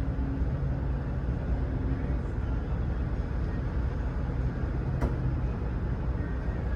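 Steady low rumble of idling vehicle engines, with a single sharp click about five seconds in.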